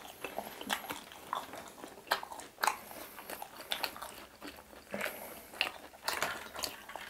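Close-up chewing and biting into crispy battered fried chicken pieces: irregular crunches and crackles, a few louder ones about two and nearly three seconds in.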